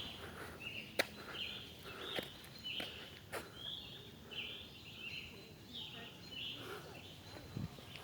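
A bird chirping over and over, about two short calls a second, with a few sharp clicks in the first half.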